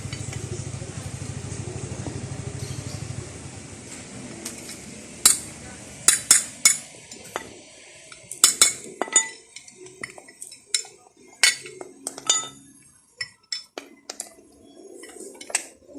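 Metal tools and motorcycle parts clinking and knocking against each other in sharp, irregular strikes with a brief ring, as the bike is worked on by hand. For the first three seconds or so a low steady hum runs underneath, then stops.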